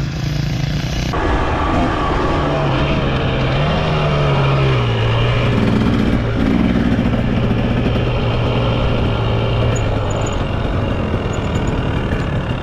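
Dirt bike engine running, its note rising briefly about four seconds in and then holding steady, under a loud steady rush of noise.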